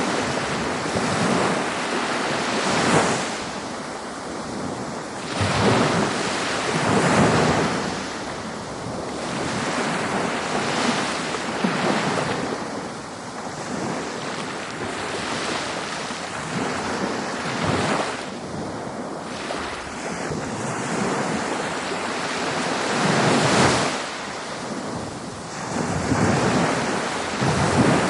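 Ocean surf breaking on a beach: continuous rushing water noise that swells with each wave every few seconds and washes back between them, with some wind on the microphone.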